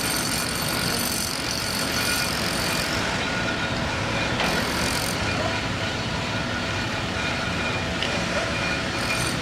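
Steady engine and vehicle noise running continuously, with no distinct events standing out.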